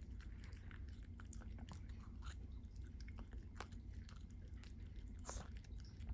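A Pomeranian chewing dog treats: a run of faint, irregular crunches and clicks.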